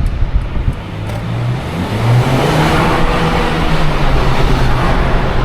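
Twin-charged Mercedes engine pulling under acceleration: its pitch climbs about two seconds in and then holds, with a rushing noise swelling alongside.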